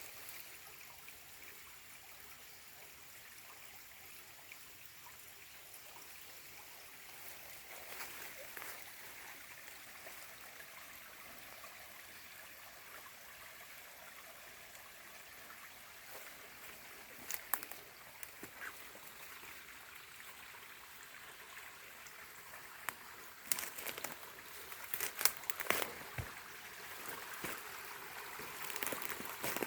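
Small shallow stream trickling and burbling over moss-covered stones, a steady low babble with scattered small splashes and drips that grow busier near the end.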